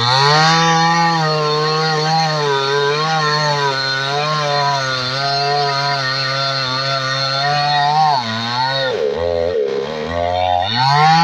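Two-stroke chainsaw engine running at high revs. It drops back about eight seconds in and revs up again near the end.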